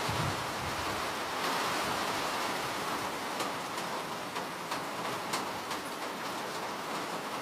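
Steady rain falling as an even hiss, with a few sharp drop taps standing out in the middle.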